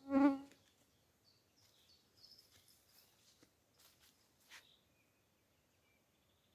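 A short, low pitched hum right at the start, the loudest sound, then faint scattered bird chirps and a couple of soft clicks.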